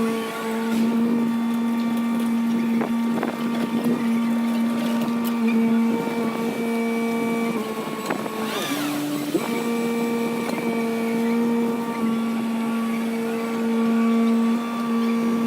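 HW60 wheeled excavator's diesel engine and hydraulics running steadily under work, a constant droning hum, with a brief drop and rise in pitch and a whine about nine seconds in, and occasional knocks.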